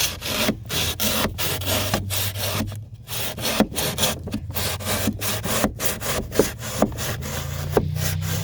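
A drywall knife sawing back and forth through pour-in flotation foam, in quick rasping strokes of about two to three a second, with a steady low hum underneath.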